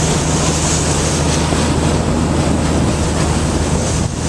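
Boat engine droning steadily while the boat runs under way, with wind buffeting the microphone and water rushing past the hull.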